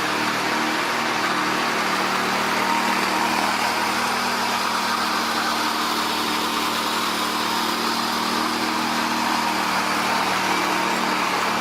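A machine's engine running steadily with an even, unchanging mechanical noise.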